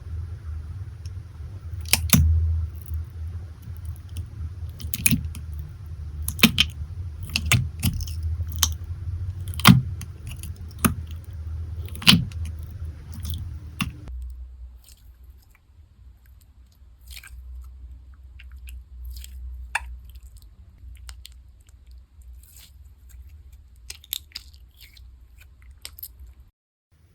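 Slime being handled, giving a series of sharp, crunchy clicks: about ten loud ones over the first half, then fainter, scattered ones.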